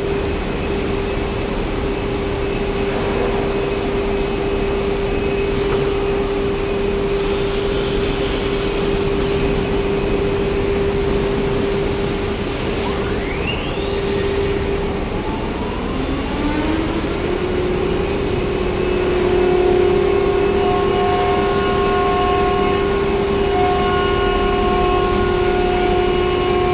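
CNC router running with a steady machine hum; a short hiss of compressed air about seven seconds in, then the spindle speeding up with a steeply rising whine from about 13 seconds and settling into a steady high whine at speed.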